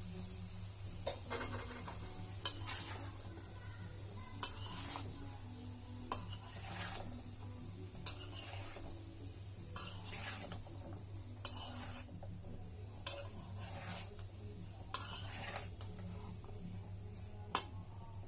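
A spatula stirring and scraping bottle gourd frying in a pan, with a stroke or knock against the pan every one to two seconds over a faint, steady sizzle.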